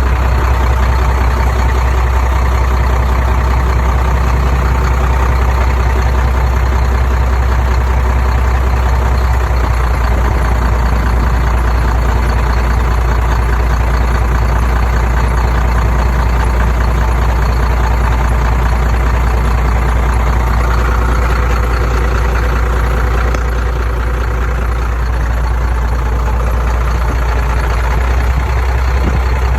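Heavy construction machine's engine running steadily with a deep, even drone.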